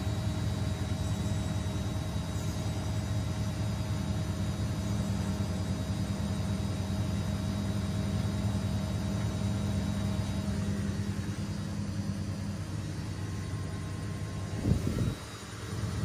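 Washing machine running, its drum motor giving a steady low hum with a faint whine. Near the end a knock is heard, the hum drops briefly, then it starts up again, as the drum stops and turns again during the wash.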